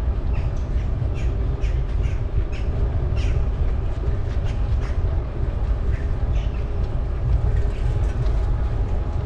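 Birds calling in short, sharp, repeated notes, many in the first half and fewer later, over a steady low rumble of wind buffeting the microphone of a moving bicycle.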